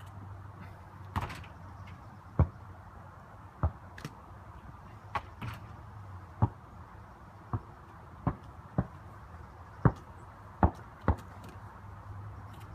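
A basketball bouncing on a hard court: about a dozen sharp thuds at uneven intervals, roughly one a second, over a steady low hum.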